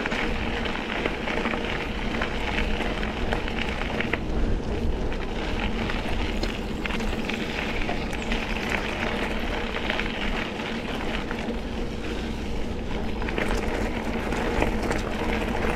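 Mountain bike rolling along a dirt and gravel double track: steady tyre noise with small crackles and rattles, and wind noise on the microphone.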